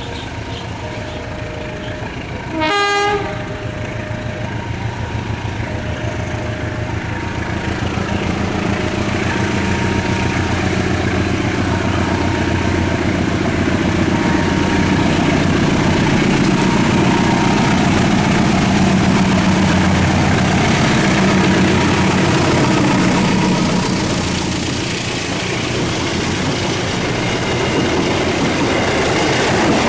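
A passenger train's horn sounds once, briefly and loudly. Then the train rumbles past, its wheels clattering over the rail joints, the noise building and staying loud.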